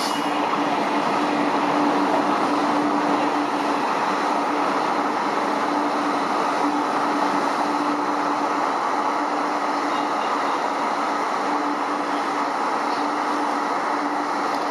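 Passenger train running at steady speed: continuous rail noise with a steady hum underneath, level throughout.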